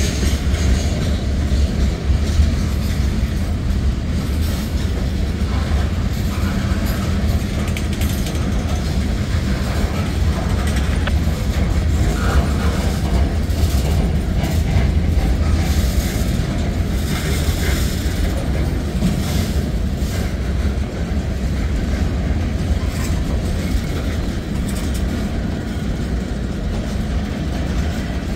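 Freight cars of a manifest train rolling past close by: a steady heavy rumble of steel wheels on the rails with clatter over the joints, and a few brief higher-pitched squeaks from the wheels partway through.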